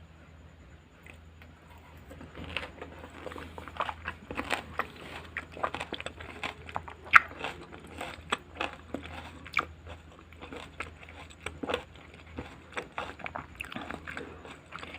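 A mouthful of raw garden salad being bitten and chewed close to the microphone. After a quiet start, a quick, irregular run of sharp crunches begins about two and a half seconds in, with the loudest crunch near the middle.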